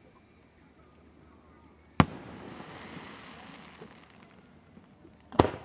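Two aerial firework shells bursting, sharp bangs about three and a half seconds apart, the first followed by about two seconds of trailing noise.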